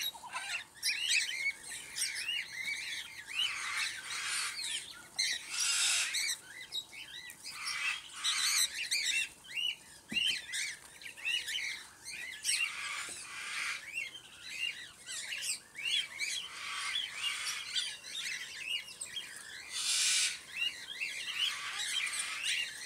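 A flock of cockatiels chirping continuously with many short, repeated calls, broken every few seconds by a brief, harsher, noisier burst.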